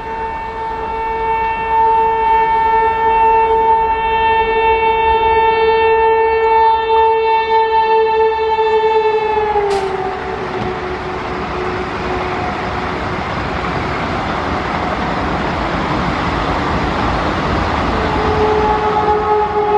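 Train horn blown in one long steady note that drops slightly in pitch about ten seconds in as the train passes, followed by the rush of the passing train. The horn sounds again near the end.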